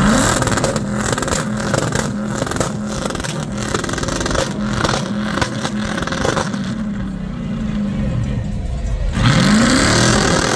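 Car engine revving hard at high rpm, its pitch climbing sharply at the start and again about nine seconds in, held high in between.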